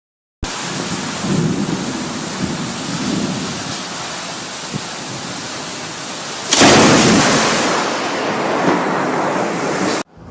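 Steady heavy rain, then a sudden loud thunderclap about two-thirds of the way through that rumbles away; the sound cuts off abruptly just before the end.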